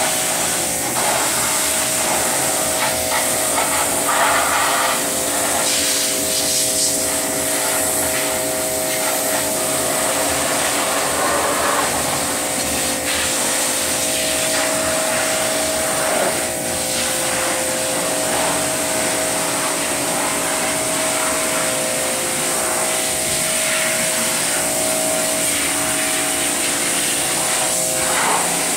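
A machine running steadily with a hum and a strong high hiss, and a few scattered clatters and rubs on top.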